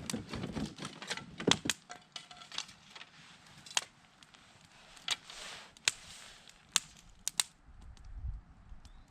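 Dry wood cracking and snapping in irregular sharp pops, some single and some in quick pairs, the loudest about a second and a half in.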